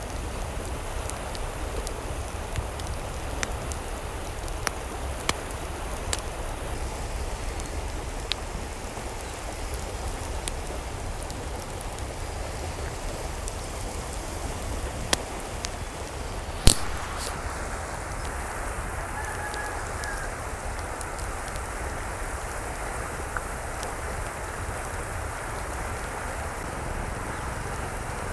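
Steady rain falling, with scattered drops tapping on a surface and one sharp, louder tap about 17 seconds in, after which the high hiss thins out.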